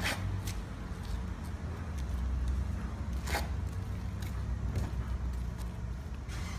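Steady low rumble with several sharp slaps, the loudest right at the start and another about three and a half seconds in, as a Piguazhang form is performed.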